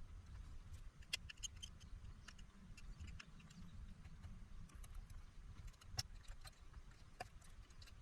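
Faint scattered clicks and taps of hand tools at a workbench, with a few sharper ticks, over a low steady rumble.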